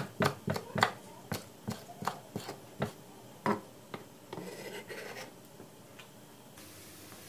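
Kitchen utensil handling: a run of sharp clicks and taps, about three a second, thinning out after a few seconds, then a short scrape. Near the end a steady sizzle of food frying in a hot pan begins.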